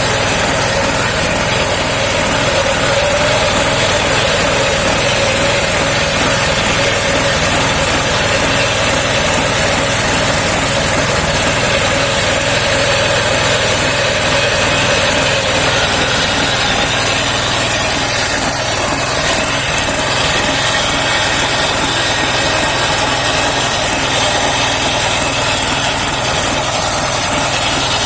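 Engine of a homemade circular sawmill running steadily under power.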